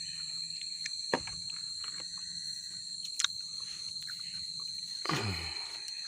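Forest insects keeping up a steady high-pitched drone. There are a few light clicks, and a brief sound falls in pitch about five seconds in.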